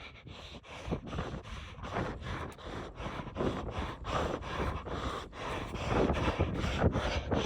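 Footsteps on outdoor ground, a steady run of soft thuds and rustles about three to four a second, with wind on the microphone.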